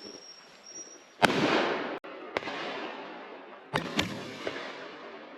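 Shotgun shots at driven pheasants: one loud shot about a second in that rings out for most of a second, then a quieter shot, and a quick pair of shots near four seconds.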